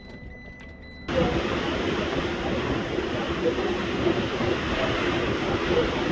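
Steady rumble and rushing noise of a moving vehicle, cutting in suddenly about a second in after faint music.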